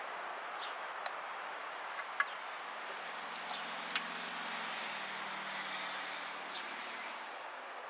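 A few sharp metallic clicks of a hand tool working the float-bowl sight-plug screw on a Holley carburetor, over steady outdoor background noise. From about three seconds in until near the end, a low hum of a distant vehicle runs underneath.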